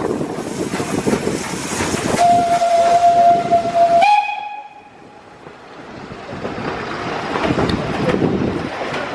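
Steam locomotive whistle, from LMS 'Jinty' 0-6-0 tank engine 47298, blowing one steady note for about two seconds amid the noise and hiss of the train. It jumps briefly to a slightly higher note and cuts off suddenly, after which the train noise slowly builds back up.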